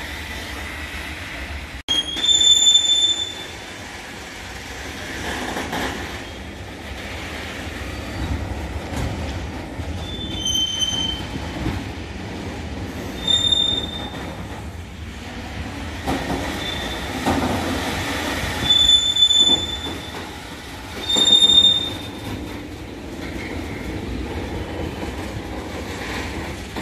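A train moving slowly over the rails with a low rumble, its wheels giving several short, high-pitched squeals a few seconds apart.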